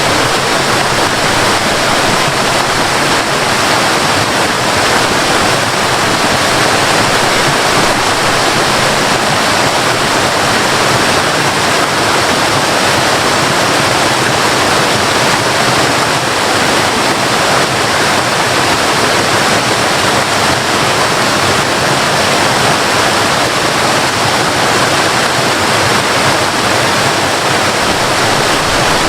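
Waterfall: falling water pouring steadily in an even, unbroken rush.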